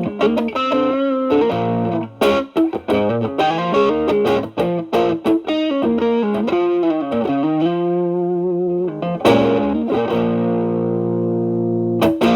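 Overdriven electric guitar: a Fender Stratocaster played through an Xotic BB Plus preamp/boost pedal into a Marshall Valvestate amp. It plays a blues-style lead of picked notes and string bends, holds a note with vibrato, then lets notes and chords sustain and ring out near the end.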